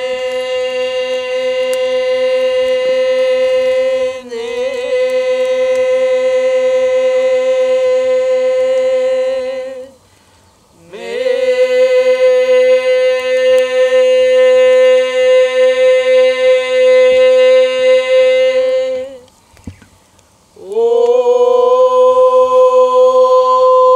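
Long chanted tones held at one steady pitch, three notes of about eight to nine seconds each with short breaks between them, each sliding up into the note at its start.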